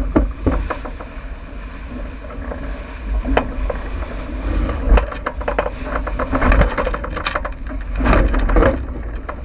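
Wind rumbling across the microphone aboard a J80 sailboat running downwind, with irregular splashes and knocks of water and boat throughout.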